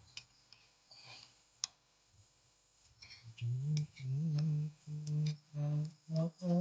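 A few light clicks and taps, then about halfway through a man starts humming a tune in short held notes with brief pauses between them.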